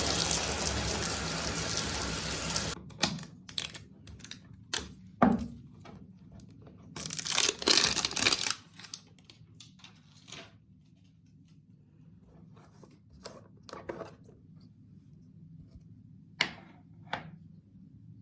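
A steady rushing noise that cuts off about three seconds in. It is followed by scattered clicks and knocks and a louder rustling, tearing-like burst in the middle: small objects being handled close by.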